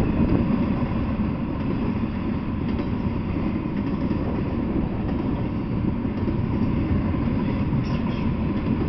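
Double-stack intermodal freight train's well cars rolling past at steady speed: a continuous low rumble of steel wheels on the rails.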